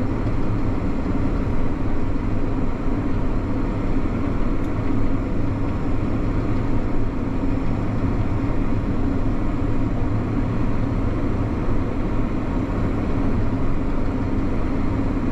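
Combine harvester running with a steady, even drone.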